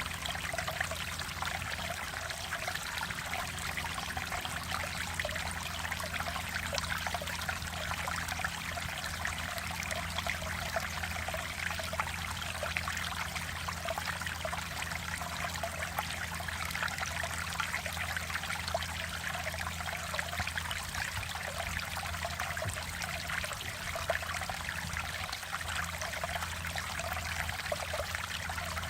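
Mountain stream water flowing and splashing over rocks, a steady unbroken rush.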